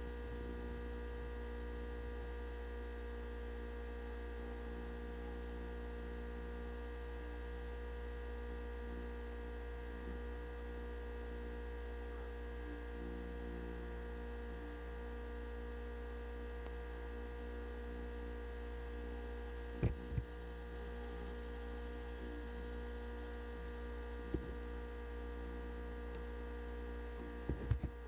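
Steady electrical hum with several steady tones above it, broken by a few short knocks: two together about two-thirds of the way through, one a few seconds later, and a cluster near the end.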